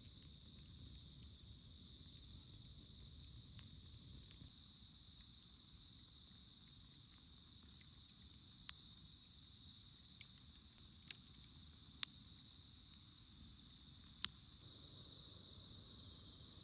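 Steady, high-pitched chorus of night insects such as crickets, with a wood campfire crackling underneath: a low rumble and a few sharp pops, the loudest about twelve and fourteen seconds in.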